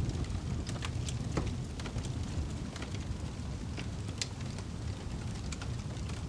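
Fire burning in a fireplace, crackling with scattered sharp pops over a low, steady rumble, and one louder pop a little past the middle.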